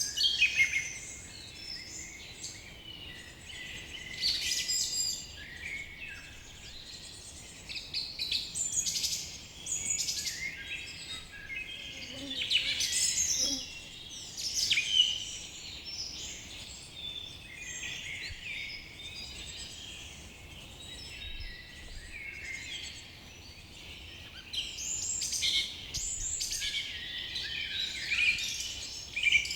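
Forest dawn-chorus style birdsong: many songbirds singing and calling at once, short chirps, whistles and trills overlapping all the while, swelling louder in several bouts.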